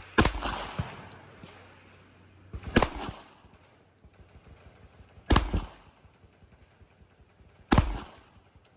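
Four single pistol shots from a 9mm Glock-pattern pistol, fired slowly about two and a half seconds apart, each followed by a short echo.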